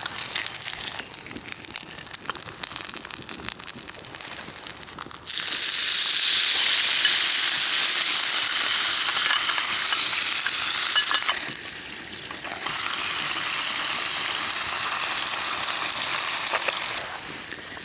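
Food sizzling in a hot pan. It starts suddenly about five seconds in after a few light clinks and crackles, dips briefly near the middle, then goes on somewhat quieter.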